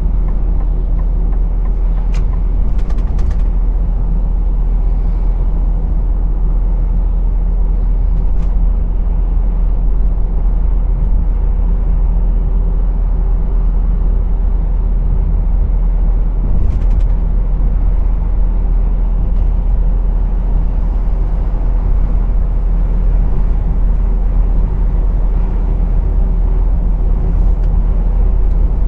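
Truck's diesel engine running steadily with road rumble, heard from the driver's cab. A few short clicks or rattles come about two to three seconds in, near eight seconds, and around seventeen seconds.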